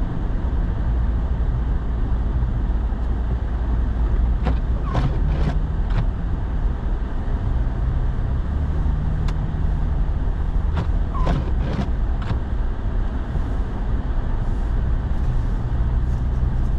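Engine and road noise inside a moving pickup truck's cab: a steady low rumble with the engine's hum shifting slightly in pitch, and a few brief clicks.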